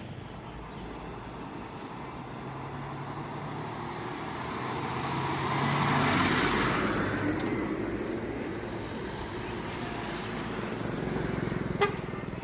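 Heavy engine running steadily while a vehicle passes on the road, its noise swelling to a peak about halfway through and then fading. A single sharp click near the end.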